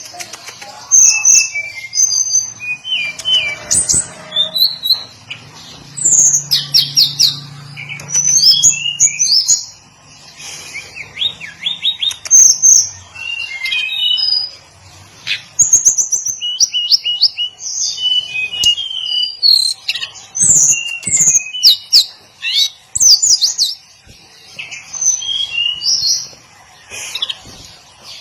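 Hill blue flycatcher singing a varied song of rapid high chirps, whistled notes and quick trills, in phrases broken by short pauses.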